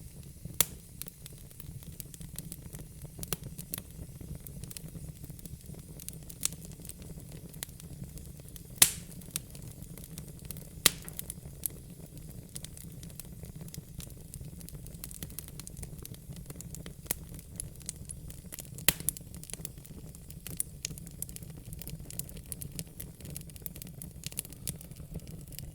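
Wood fire crackling with irregular sharp pops, the loudest about nine and eleven seconds in, over a low steady rumble.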